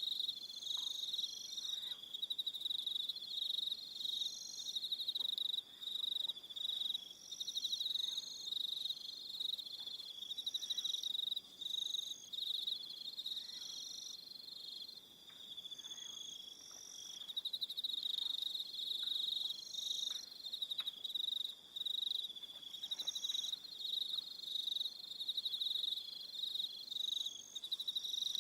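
A chorus of crickets chirping: a dense, pulsing high-pitched trill that carries on throughout, with shorter, even higher chirps recurring every second or two over it.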